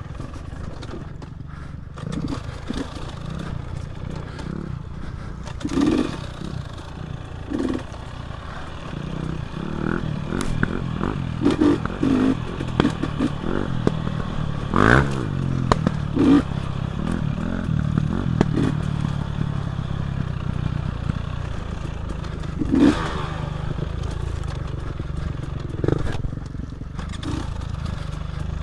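Dirt bike engine running on a trail ride, its revs rising and falling with throttle and a quick rev about halfway through, over clattering and scraping knocks from the bike as it rides.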